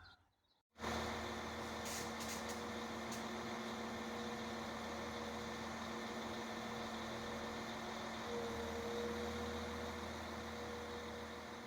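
A train idling at a station: a steady engine hum with a couple of held tones, starting abruptly a little under a second in. About eight seconds in, one of the higher tones rises slightly.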